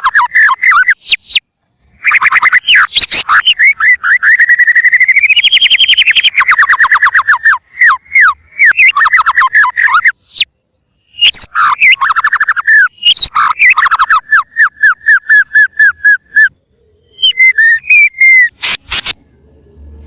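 White-rumped shama (murai batu) singing loudly: phrases of fast repeated whistled notes with short pauses between them, including a long run in the first half that rises in pitch toward its middle.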